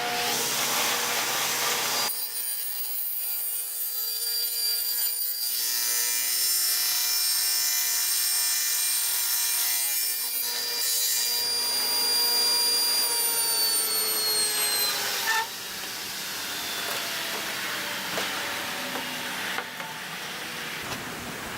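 Power saw started about two seconds in and cutting through a wooden board, then switched off, its blade spinning down with a falling whine for a few seconds.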